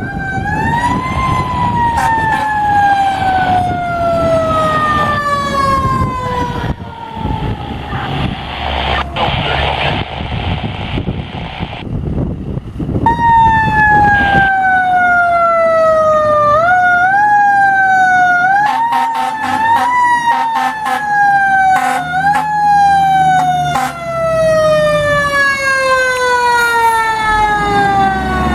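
Fire truck siren sounding as the truck responds: a pitch that slides slowly down over several seconds, dies away, then comes back loud and is kicked up in short rises several times before sliding down again.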